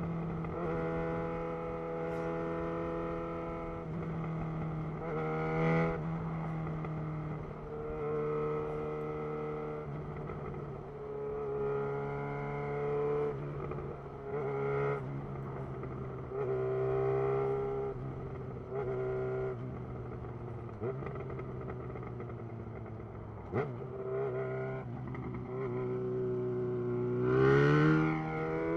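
2011 Yamaha XJ6's inline-four engine through a Black Widow full exhaust system, running at a fairly steady pitch while riding, with small throttle rises and dips. Near the end it revs up, climbing in pitch as the bike accelerates.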